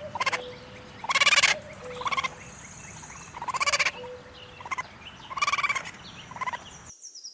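Raccoon calling: about seven short, quavering trilled calls, each lasting under half a second, spaced roughly a second apart.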